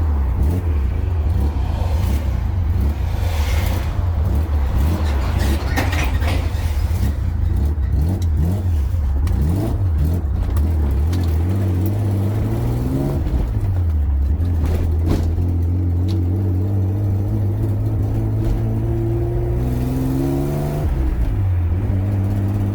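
BMW E36 with a swapped-in M50B25 straight-six and a full aftermarket exhaust, driving with a steady deep exhaust note. Twice the revs climb and then drop sharply as the gears change, about halfway through and near the end.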